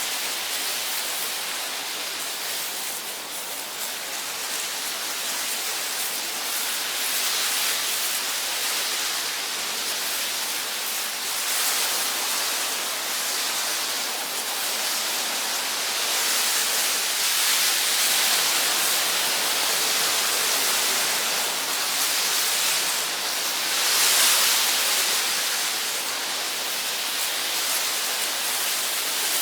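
Steady rushing of water, a smooth hiss that swells and eases gently every few seconds.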